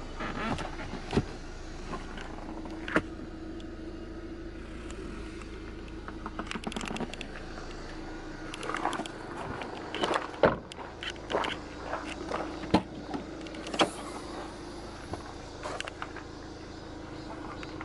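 Switches and fittings of a GM Daewoo Winstorm being worked, with scattered clicks and knocks, and twice a steady electric motor hum of a couple of seconds, such as a power window running.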